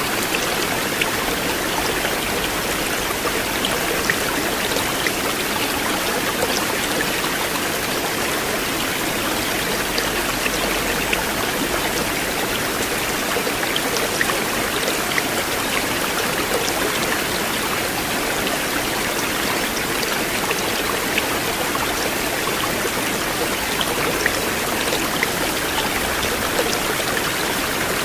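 River water flowing steadily, a continuous rushing with scattered small splashes and drips.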